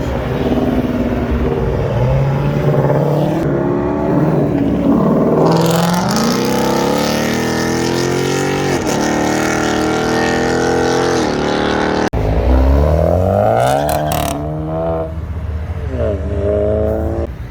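Performance car engines accelerating hard one after another, the engine note climbing and dropping back at gear changes. Near the end a second and a third car rev up in a rising run.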